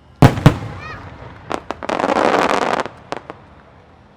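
Aerial fireworks: two loud shell bursts about a quarter second apart with a fading echo, then a few single pops and about a second of dense crackling, ending with scattered pops.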